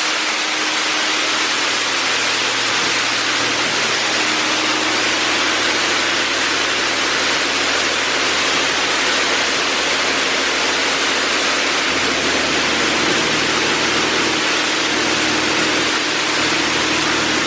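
High-pressure water jets of an Oasis Monsoon automatic car wash spraying over a car body, giving a steady, even hiss with a faint hum beneath it.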